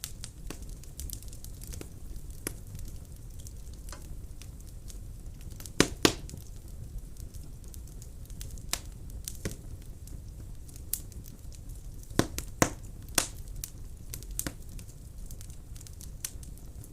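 Wood fire burning in a fireplace: a steady low rumble from the flames with scattered sharp crackles and pops from the logs. The loudest pops come as a pair about six seconds in and as a cluster around twelve to thirteen seconds.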